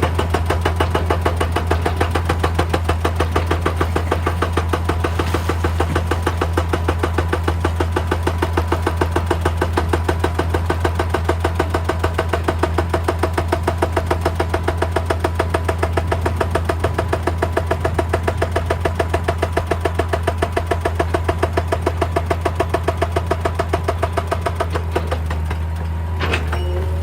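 Excavator's diesel engine running steadily under a rapid, even hammering of about five blows a second, typical of a hydraulic breaker working rock.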